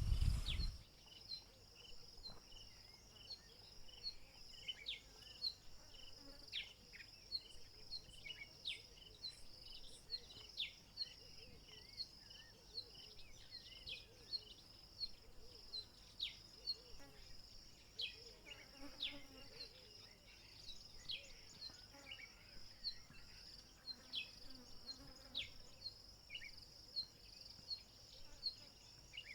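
Steady high-pitched chirring of bush insects, with a short chirp repeating at an even pace and scattered short falling bird calls. A low rumble cuts off abruptly in the first second.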